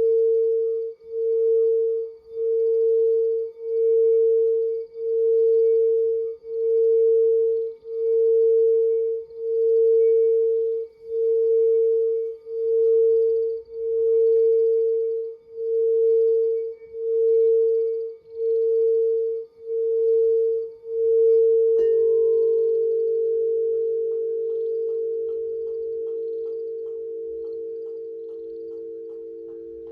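Crystal singing bowl sung around the rim, one steady tone swelling and dipping about every second and a half. About two-thirds of the way in a sharp tap sounds, then the bowl rings on with slightly lower tones joining it and slowly fades.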